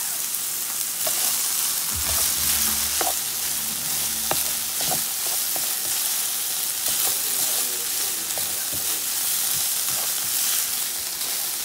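Ground beef and diced onion sizzling in a skillet as they are stirred, with a steady hiss and scattered light clicks and taps.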